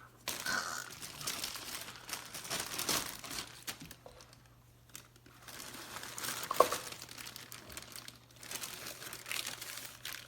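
Plastic crinkling and rustling in irregular bursts as something is handled, with a sharp click about six and a half seconds in.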